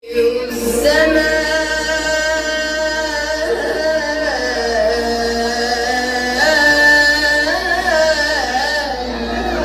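Solo voice singing in a melismatic Middle Eastern style, holding long notes that waver and bend in ornamented runs, over a steady low hum.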